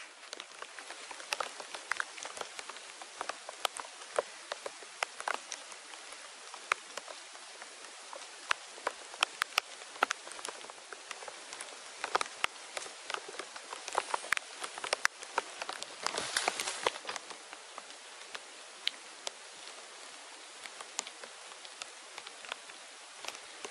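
Light rain pattering on leaves and grass, with individual drops ticking at irregular moments over a steady hiss. A louder rustle comes about sixteen seconds in.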